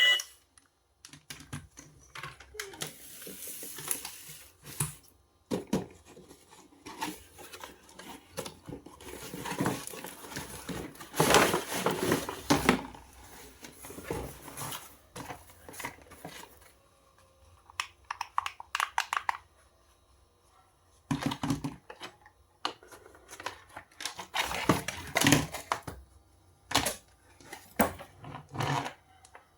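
Packaging being handled and opened by hand: plastic and cardboard crinkling and tearing, with scattered clicks and knocks, in uneven bursts separated by short pauses.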